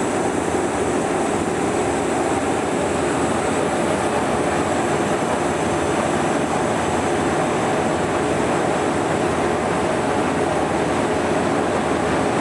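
State Railway of Thailand HID-class diesel locomotive running steadily, a constant engine rumble with a thin high whine above it.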